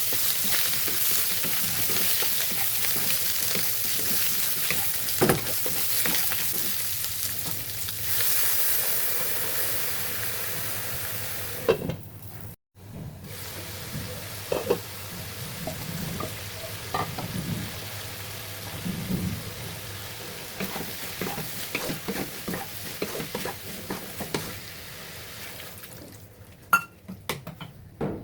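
Snake gourd and shrimp sizzling in hot oil in a pan while being stirred. The sizzle is loudest for the first half. After a brief break it is quieter, with frequent spatula scrapes and taps against the pan.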